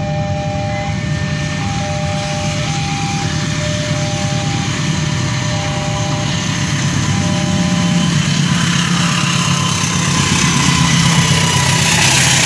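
A diesel locomotive hauling a passenger train approaches and passes close by. Its engine runs low and steady, and the noise of the wheels on the rails grows louder toward the end. A level-crossing warning signal sounds over it, a repeating two-tone chime.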